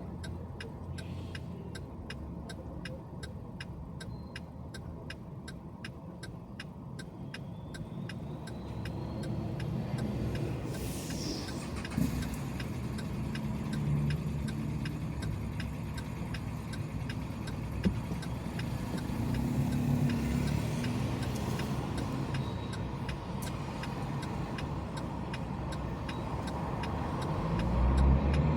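A car driving on the road, with steady engine and tyre noise that swells a few times, and a faint regular ticking.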